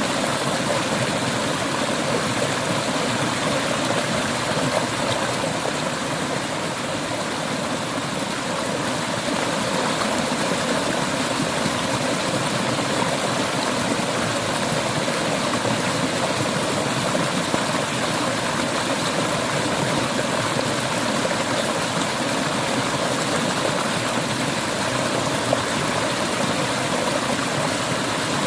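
Clear river water flowing steadily over stones: a constant rushing babble.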